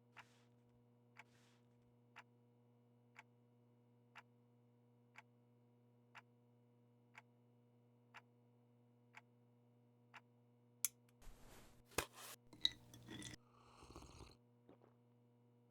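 A clock ticking about once a second over a faint steady electrical hum. About eleven seconds in, the ticking gives way to a few seconds of louder clicks and rustling.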